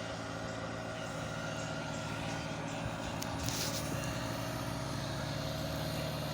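Massey Ferguson 1035 tractor's three-cylinder diesel engine running steadily, picking up a little about two-thirds of the way in, with a short hiss about halfway through.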